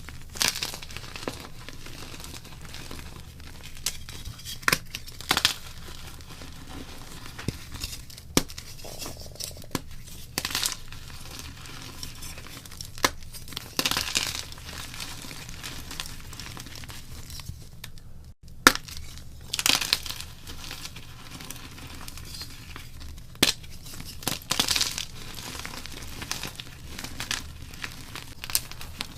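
Blocks of gym chalk being crushed and crumbled: irregular crunches and sharp snaps, some in quick clusters, with a faint steady hum beneath.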